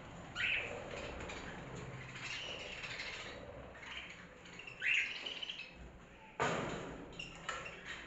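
Small pet parrots in an aviary chirping: two short rising calls, one about a second in and one about five seconds in, with softer chirps between them. A sudden burst of noise comes near the end and fades within about a second.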